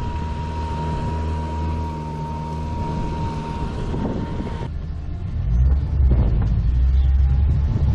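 Mercury EFI outboard motor running with a steady low engine note, getting louder about five and a half seconds in. A steady high whine with hiss sits over it for the first four and a half seconds, then stops suddenly.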